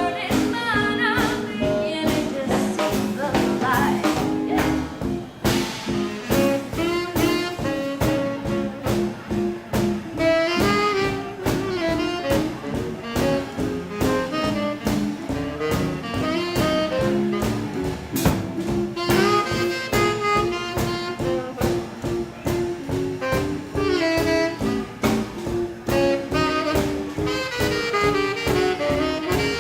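Live 1940s-style swing band playing an instrumental passage, saxophone to the fore with brass, over a steady drum beat.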